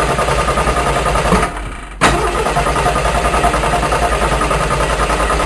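Tractor engine sound effect, running with a rapid, even chugging beat. It drops away briefly about a second and a half in and cuts back in sharply at two seconds.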